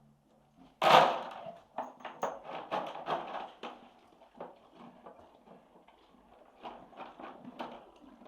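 A horse at its feed basket: a loud sharp knock about a second in, then irregular crunching clicks as it chews a hard treat such as a pretzel.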